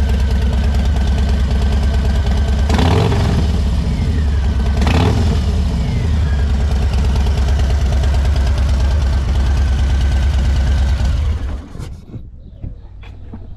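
2022 Harley-Davidson Low Rider ST's Milwaukee-Eight 117 V-twin idling through an aftermarket Horsepower Inc. 2-into-1 exhaust. It is revved twice a few seconds in, each rev rising and falling back to idle, and the engine sound stops suddenly about eleven seconds in, leaving a few faint clicks.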